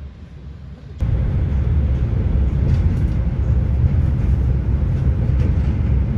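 Train running: a steady low rumble with a hiss of running noise that jumps suddenly louder about a second in.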